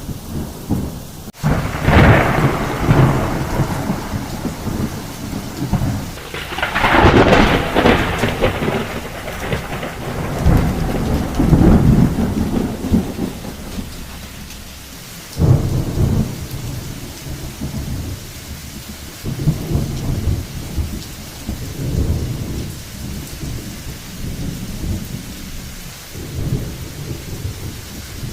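Loud, low rumbling noise that swells and fades in uneven surges, biggest around two, seven and twelve seconds in.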